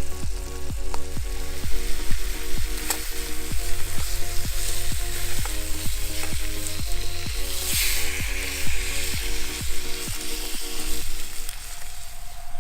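Steaks and bell peppers sizzling in a frying pan over a campfire, with a louder burst of sizzle about eight seconds in. Background music with a steady beat plays underneath and thins out near the end.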